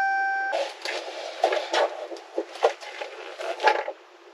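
A bell-like ding, cut off after about half a second, followed by some three seconds of irregular knocks and rattles.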